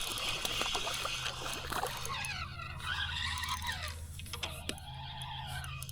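Light water splashing and dripping with scattered knocks and clicks, and a few gliding high tones near the middle, over a steady low hum.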